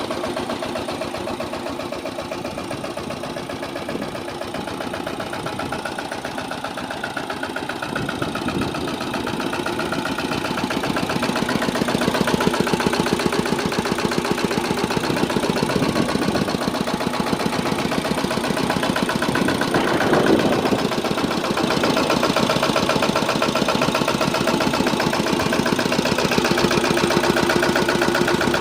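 Engine of a sanedo, a home-built mini tractor, running steadily with a fast, even firing beat. It grows louder about a third of the way through.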